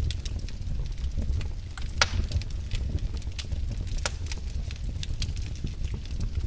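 Wood fire burning in a fireplace: frequent sharp crackles and pops over a steady low rumble, with louder pops about two and four seconds in.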